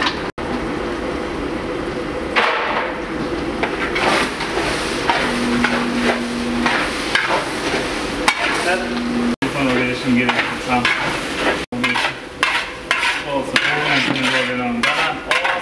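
Food sizzling as it fries in oil in a large cooking pot, with a ladle stirring it and scraping against the pot in many short strokes.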